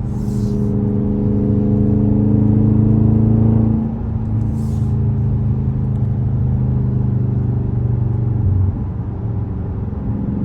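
V8 exhaust of a 2022 Dodge Charger Scat Pack with its mid mufflers deleted, droning steadily. The note eases off about four seconds in.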